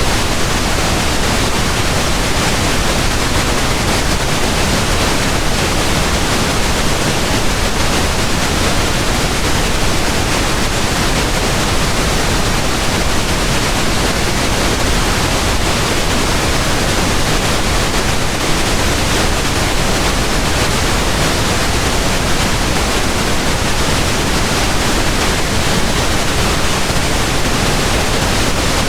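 Pink noise: a steady, even hiss spread across all pitches, heavier in the lows, without any change.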